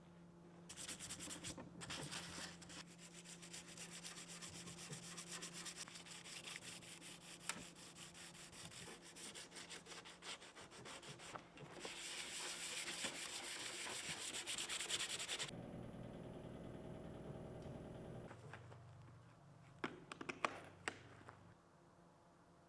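Sandpaper rubbing back and forth over the steel skin of a 1971 Morris Mini door, a steady scratchy rubbing that grows heavier for a few seconds before stopping about two-thirds of the way through. A low hum follows for a few seconds, then a few light clicks near the end.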